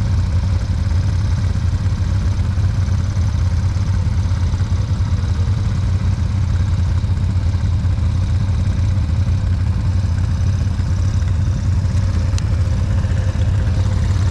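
ATV engine running steadily with an even low drone and no revving.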